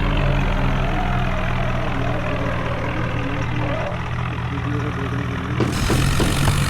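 Vehicle engine running steadily at a low, even pitch. About five and a half seconds in the sound changes abruptly, followed by a few short knocks.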